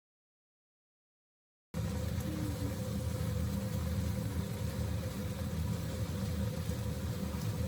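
Nearly two seconds of silence after a cut, then steady vehicle cabin noise: a continuous low rumble with a faint steady hum.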